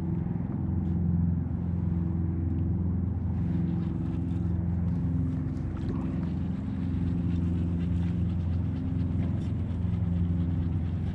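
A small boat motor running steadily, a low droning hum that wavers slightly in pitch.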